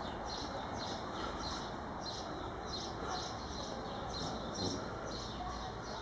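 A small bird chirping over and over, about two short high chirps a second, over a steady low background noise.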